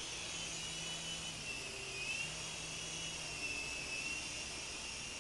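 Small RC helicopter hovering, its motor and rotor giving a steady high whine that wavers up and down in pitch as the throttle is worked, over a low hum.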